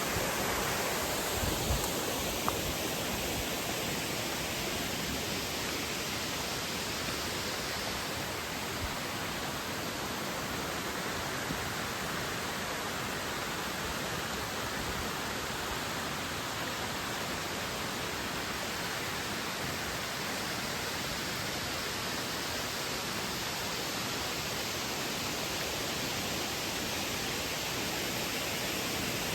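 Steady, even rushing of a waterfall, with a few soft bumps in the first few seconds.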